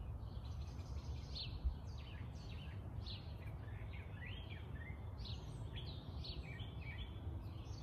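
Small songbirds chirping and twittering, many short sliding notes one after another, over a steady low background rumble. A single soft low thump a little under two seconds in.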